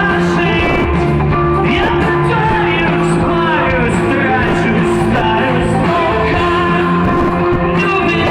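Rock band playing a song with a singer's voice over guitars, bass and drums. The music is loud and continuous.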